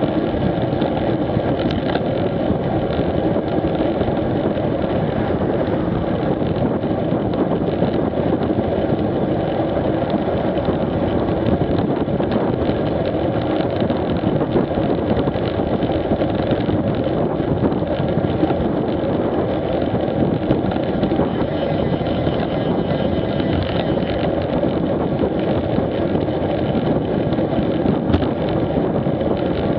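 Motorcycle engine running at a steady pace, mixed with wind rushing over the microphone.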